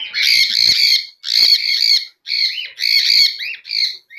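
Parrots giving a run of loud, harsh squawks, one after another with short gaps between them.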